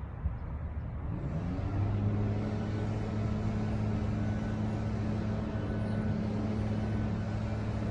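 A motor or engine starts up about a second in, its hum rising in pitch, then runs on at a steady, even hum.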